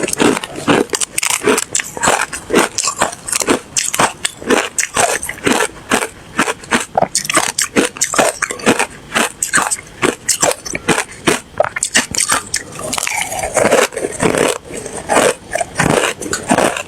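A person crunching and chewing hard ice close to the microphone, with rapid sharp crunches about three to four a second.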